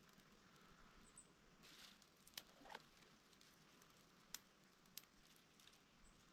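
Near silence broken by a short scrape and three or four faint, sharp clicks spread over a few seconds, from hands at work lighting a fire with flint.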